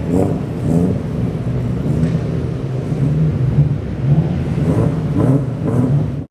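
A car engine running with a steady deep rumble.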